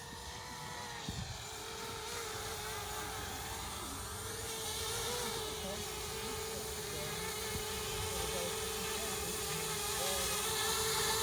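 Small quadcopter's electric motors and propellers buzzing in flight, holding a fairly steady pitch with small wavers and slowly growing louder.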